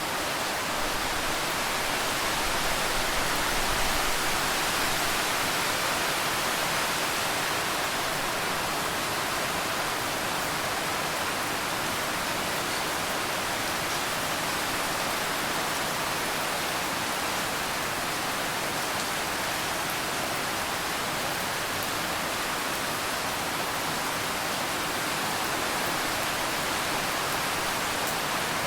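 Steady rain falling, an even, dense hiss of rainfall that swells slightly a few seconds in.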